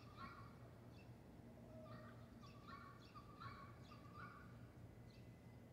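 Faint bird calls: a string of short, repeated calls, about seven in all, over a steady low hum.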